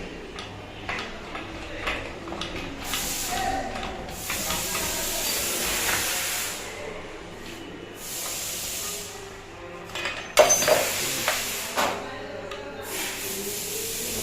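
Several bursts of hissing, each lasting one to a few seconds, with a few sharp knocks about ten seconds in.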